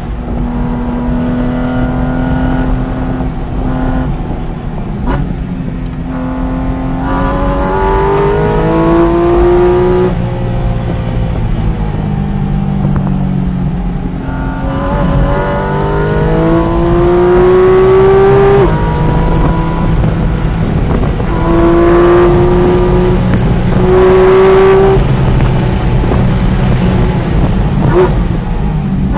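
Sports car engine heard from inside the cabin on a race track, its pitch climbing several times under full acceleration and dropping off sharply at shifts and lifts, over steady road and wind noise.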